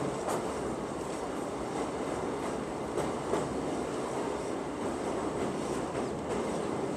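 Electric MEMU local train running over a steel truss bridge: a steady rumble of wheels on rail, with a few faint, irregular clicks.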